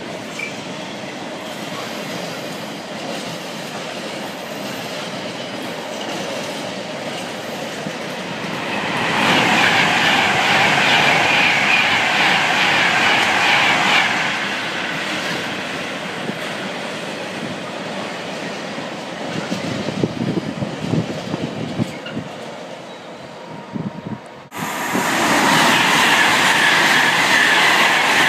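Container freight wagons rolling past with a steady rumble and irregular clatter of wheels over rail joints. A Class 390 Pendolino electric train passes on a nearer line and is loudest for several seconds near the middle. About three-quarters of the way in, the sound switches suddenly to a loud, steady rush of a train running through the station at speed.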